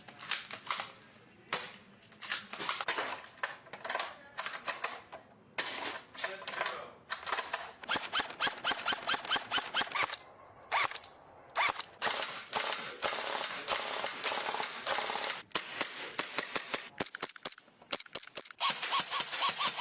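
Gas-powered airsoft guns firing: scattered single shots, then rapid full-auto bursts in the middle, then single shots again.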